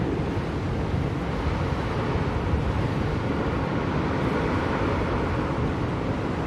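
Blizzard wind blowing steadily: a constant low rushing noise with no breaks or gusts standing out.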